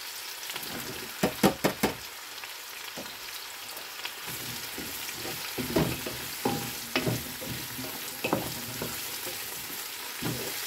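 Sliced mushrooms and onions sizzling in oil in a large nonstick pot while a wooden spoon stirs them. The spoon knocks against the pot in a quick run of four knocks about a second in, then more scattered knocks through the middle.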